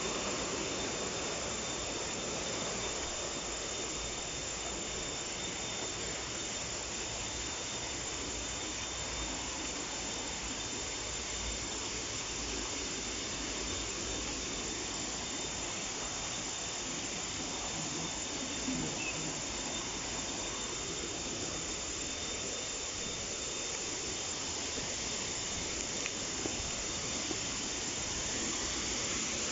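Steady rushing hiss of a waterfall's falling water, even throughout, with a thin, steady high tone running under it.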